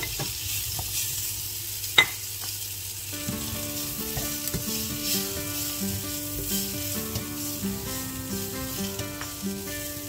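Sliced tempe sizzling in hot oil in a frying pan as it is tipped in and stirred with a spatula, with one sharp knock of utensil on pan about two seconds in. From about three seconds in a simple background melody plays under the sizzling.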